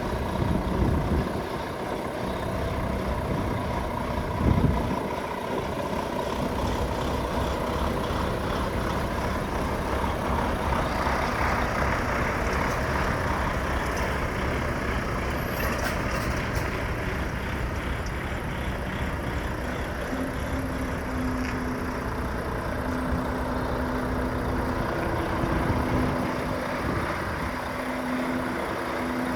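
Volvo FH 500 truck's 13-litre six-cylinder diesel idling steadily, with a brief knock about four and a half seconds in.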